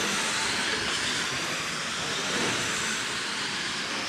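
A pack of RC dirt oval race cars running laps, their electric motors whining and tyres hissing on the dirt in a steady high wash of sound.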